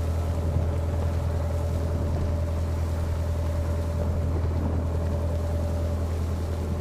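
Narrowboat's diesel engine running steadily under way: a constant low hum with a faint steady whine above it.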